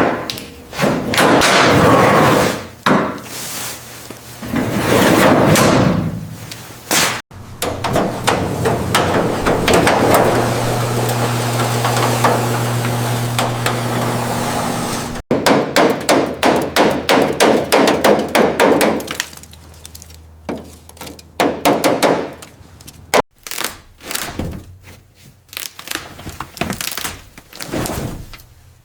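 Car-restoration workshop sounds in abrupt segments: heavy knocks and scraping on metal, then a steady machine hum with hiss, then a fast run of clattering knocks.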